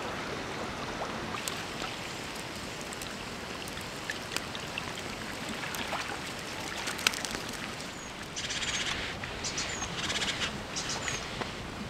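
Steady outdoor hiss with a few sharp clicks, then small birds calling from about eight seconds in: short high chirps and rapid trills, repeated several times.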